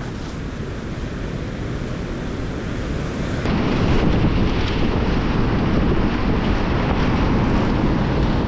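Strong gusting wind buffeting the microphone, a loud, rushing rumble that grows louder about three and a half seconds in.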